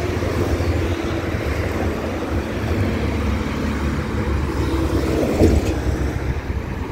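Car engine running at low speed as the car manoeuvres into a parallel parking space, with a steady low rumble.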